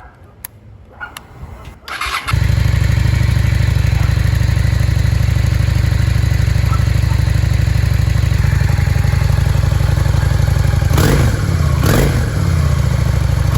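Honda Shadow V-twin motorcycle engine starting about two seconds in and then idling steadily; it is revved twice near the end.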